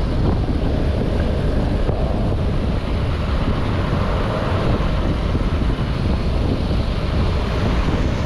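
Heavy wind noise buffeting the microphone while riding a motorcycle, a steady low rumbling roar.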